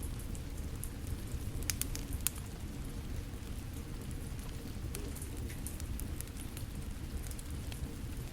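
Steady rainfall with a wood fire crackling over it: a low, even rush of rain, with a cluster of sharp crackling pops about two seconds in and scattered lighter pops later.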